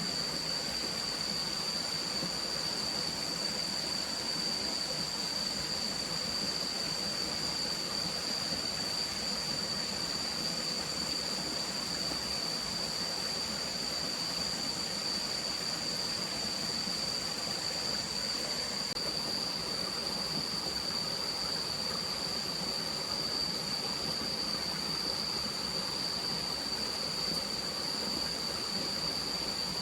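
Steady rushing of a forest stream, with a constant high-pitched tone running over it.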